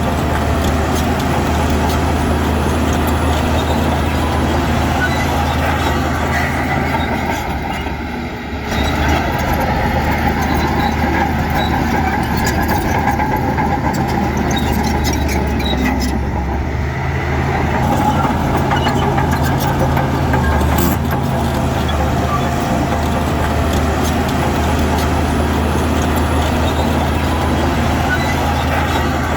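Heavy diesel engine of earthmoving machinery running steadily under load, with a brief dip about eight seconds in and a change of note around sixteen seconds in.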